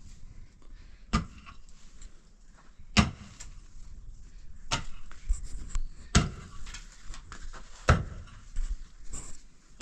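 A series of sharp knocks, about one every one and a half to two seconds, with lighter clicks and rattles between them.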